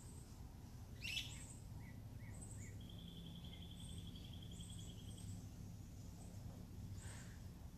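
Several songbirds calling outdoors: repeated short high chirps, one sharper, louder call about a second in, and a rapid even trill of a couple of seconds' length starting around the third second, over a low steady background hum.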